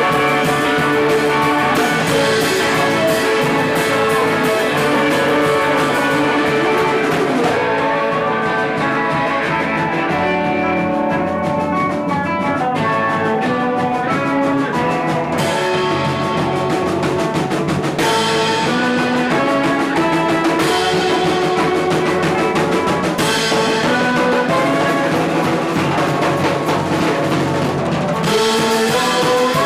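Live rock band playing drum kit and guitar. The cymbals drop out for several seconds in the middle, then come back in.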